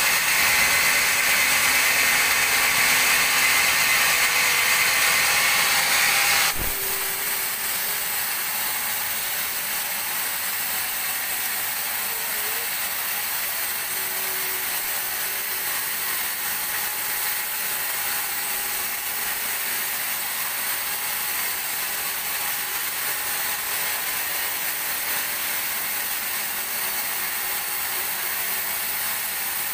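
Sawmill band saw working a teak log, a loud steady high-pitched cutting noise. About six and a half seconds in it drops off suddenly with a single knock, leaving a quieter steady machine noise for the rest.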